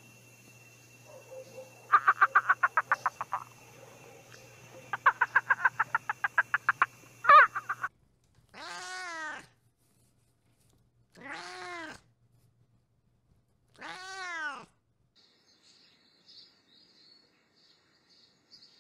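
Two rattling trains of rapid croaks and a sharp call, then a cat meowing three times, each meow long and drawn out, rising and falling in pitch. Faint high chirps near the end.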